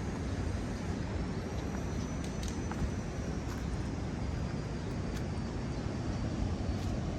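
Steady low rush of ocean surf and wind, with a faint thin high tone drifting through the middle and a few light ticks.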